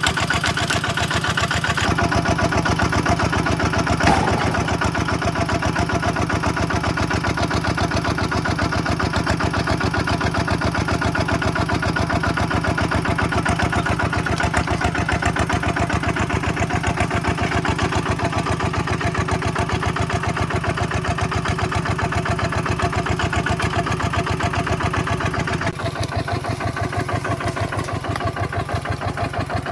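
Tractor diesel engine running steadily with an even, rapid pulsing beat. It gets a little quieter a few seconds before the end.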